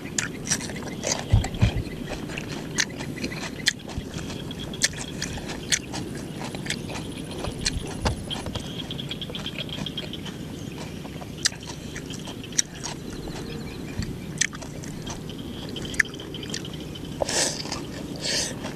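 Chewing and crunching of a fried rice-flour crepe (banh chhev) wrapped in lettuce leaves, with many sharp irregular crunches and mouth noises. There is a louder cluster of crunches near the end.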